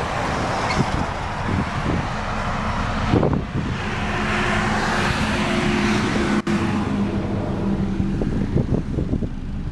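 Highway traffic rushing past: a steady wash of tyre and engine noise, with one vehicle's low engine hum swelling and fading between about three and a half and eight seconds in.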